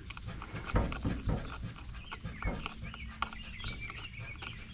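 Small birds chirping repeatedly, with scattered clicks and two dull knocks about a second in.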